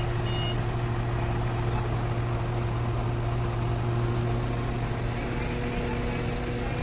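Truck crane's diesel engine running steadily with a deep drone, its note shifting a little about five seconds in. A high warning beeper sounds once at the very start, then stops.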